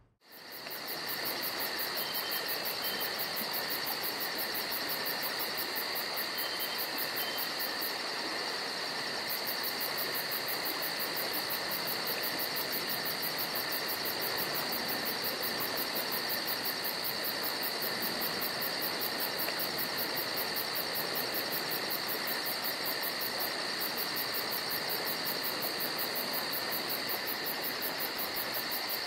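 Steady insect chorus, crickets by the sound, a continuous high-pitched trilling on two pitches with a fast, even pulse above. It comes in suddenly at the very start and then holds level throughout.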